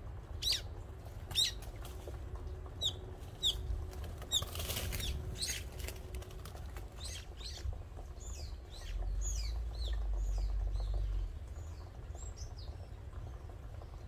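Small birds calling with a string of short, high chirps that fall in pitch, with a brief flurry of wingbeats about five seconds in. A low rumble rises for a couple of seconds around ten seconds in.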